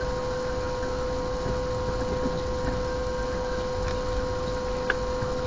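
Car engine idling at a standstill, heard inside the cabin as a low, even rumble under a steady whine, with one light click about five seconds in.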